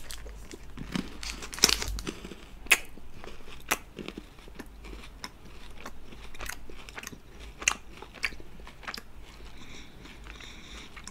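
Close-miked biting and chewing of a KitKat chocolate wafer bar: crisp wafer crunches with sharp snaps, the loudest about two to three seconds in, then softer crunching and chewing.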